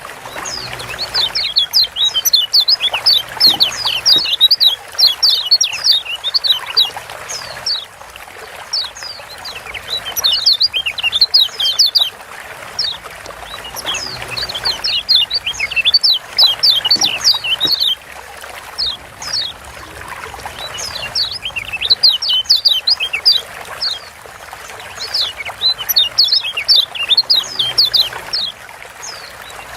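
Kecial kuning (Lombok yellow white-eye, a Zosterops) giving rapid bursts of short, sharp high chirps, the 'ciak' call, in clusters of a few seconds that repeat over and over, used as a stimulus call to set other white-eyes singing.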